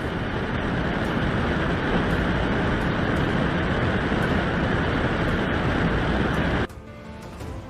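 Steady rushing vehicle and road noise with no distinct impacts, cutting off abruptly near the end.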